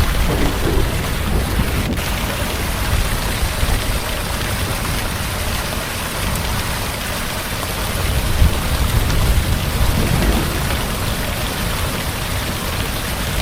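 Heavy rain falling in a steady, dense hiss, under a low rumble of thunder that swells about eight seconds in.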